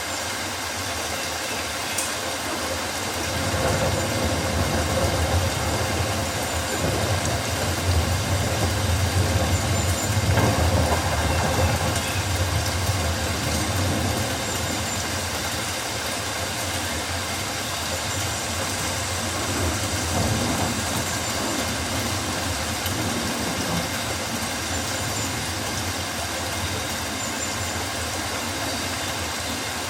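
Rainforest ambience: a steady wash of rain-like noise, with a low rumble that swells and fades over about ten seconds in the first half. Faint high chirps recur every few seconds.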